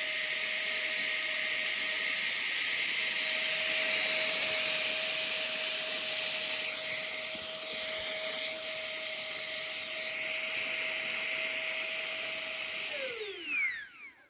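Flextail Tiny Pump 2 mini electric air pump running with a steady high-pitched fan whine. Near the end it is switched off and the whine falls in pitch as the motor spins down, then stops.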